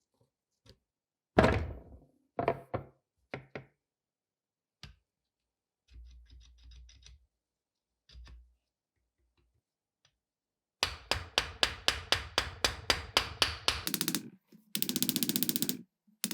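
Workshop sounds of metal pistol parts and hand tools: a few separate knocks and light taps, then, about eleven seconds in, a fast even run of sharp knocks at about four or five a second, and near the end a short buzzing burst.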